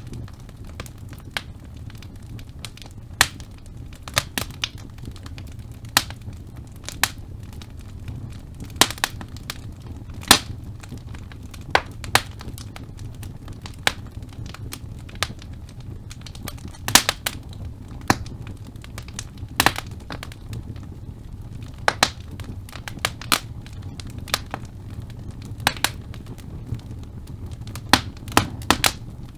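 Wood logs burning in a fireplace, crackling with irregular sharp pops and snaps over the steady low rumble of the flames.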